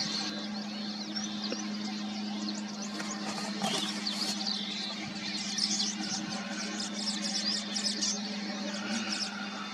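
Many small birds chirping and twittering in quick, overlapping high notes, over a steady low hum.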